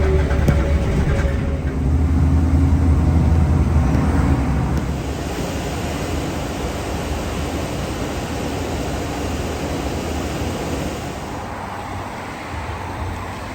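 A heavy diesel truck passing close, its low engine rumble loudest for the first four seconds or so, then fading into steady road traffic noise.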